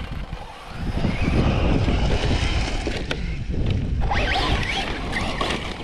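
Wind rumbling on the microphone, with a few short rising whines near the end from a radio-controlled truck's electric motor revving.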